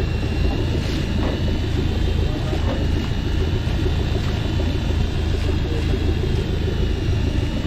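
Boat's engine running steadily, a low rumble with a faint steady high whine over it.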